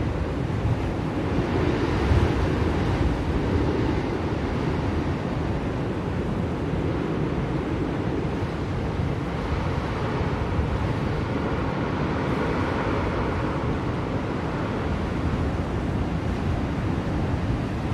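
Blizzard wind blowing steadily, a low rushing noise that swells and eases gently.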